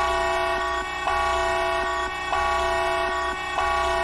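A horn held in one long, steady blast of several tones at once, swelling again about every second and a quarter.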